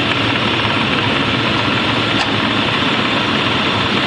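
1995 Lincoln Town Car's engine idling steadily with the air conditioning running.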